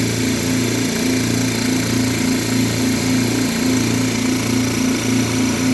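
Air Star 50 dental air compressor running with both motors pumping, a steady pulsing drone as it builds tank pressure after air was let out.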